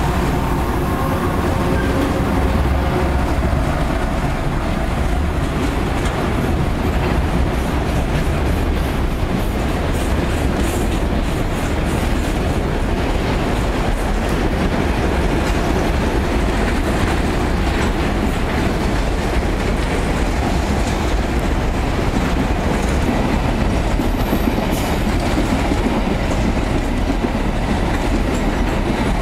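Freight train passing close by. Its diesel locomotives run with a steady drone for the first few seconds. After that, a string of boxcars and hopper wagons rolls past with a continuous rumble and rhythmic wheel clatter.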